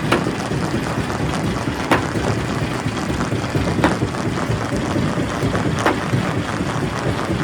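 Quarry primary rock crusher running under load: a steady rumble with sharp cracks about every two seconds and smaller clicks between, as rock breaks in the crusher.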